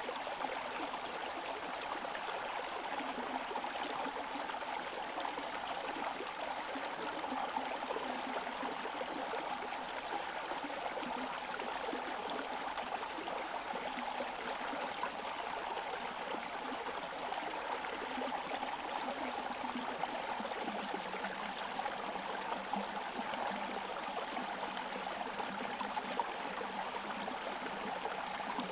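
Small forest stream flowing and gurgling steadily over stones, its surface partly frozen.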